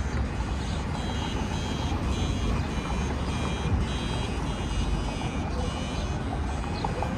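An electronic alarm beeping in a repeating high-pitched pattern, about once a second, over the low rumble of city street traffic.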